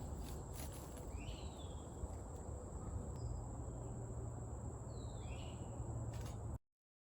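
Woodland ambience: a steady high-pitched insect drone with two short bird calls, one about a second in and one near five seconds, over a low rumble. It cuts off suddenly near the end.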